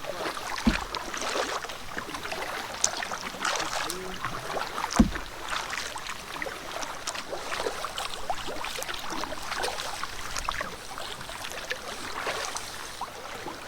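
Canoe paddling: water splashing and dripping from the paddle as it strokes through calm lake water, with two dull knocks, one about a second in and a louder one about five seconds in.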